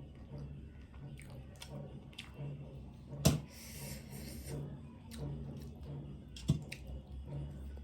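Eating sounds: crab being handled and chewed, with small clicks, two sharp cracks about three and six and a half seconds in, and a short hiss just after the first.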